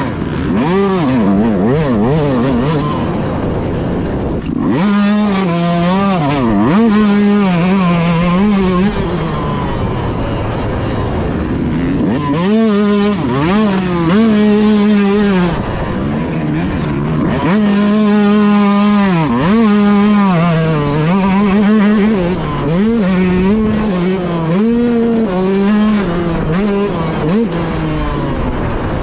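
Motocross bike engine under race load, revving hard and climbing through the gears, then dropping off the throttle and pulling hard again, several times over.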